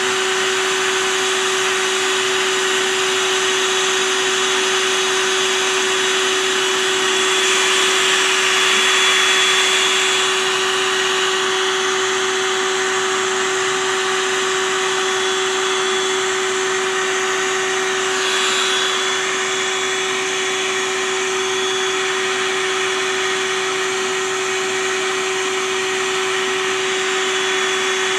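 Vacuum motor running steadily with a constant whine over a rushing of air, the airflow hiss swelling briefly twice: a bee vacuum drawing the swarm out of the compost bin.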